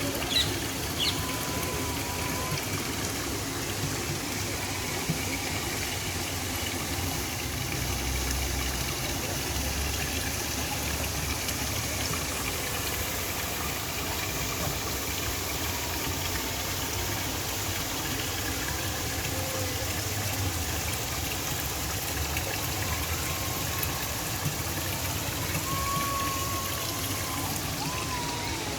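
Steady park ambience of running water mixed with the low rumble of distant road traffic, which swells for a few seconds near the start. A few short high chirps are heard at the beginning.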